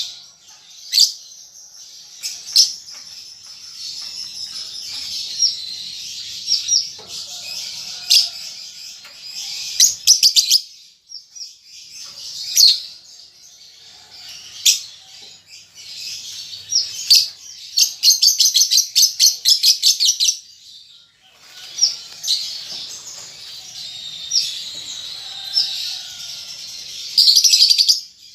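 Young lovebird chattering with high, squeaky chirps. About two-thirds of the way in comes a fast run of sharp, evenly repeated ticking notes, and a dense burst of chatter comes near the end. This is the 'ngetik' ticking that a juvenile lovebird practises as it learns to sing.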